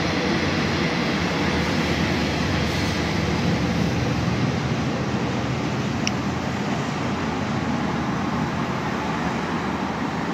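Passenger train rolling past at a distance: a steady rumble that slowly fades as the last coaches go by.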